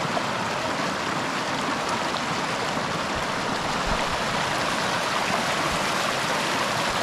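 Fast-flowing mountain creek, a loud, steady rush of water.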